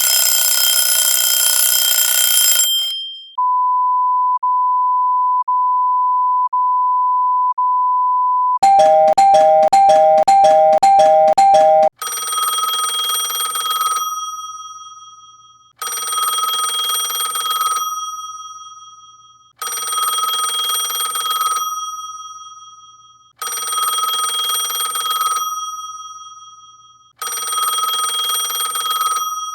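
A string of alarm tones. A bright bell-like ringing stops about three seconds in. Next comes a steady single beep, broken briefly about once a second. A fast two-tone trill follows, and from about twelve seconds a ringtone sounds in rings of about two seconds that fade out, repeating roughly every four seconds.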